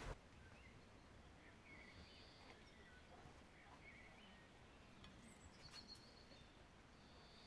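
Quiet outdoor ambience with faint, scattered bird chirps and short whistles.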